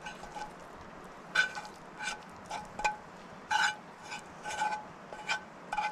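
A metal utensil stirring and scraping food in cookware, about a dozen short, irregular clinks, each leaving a brief ring.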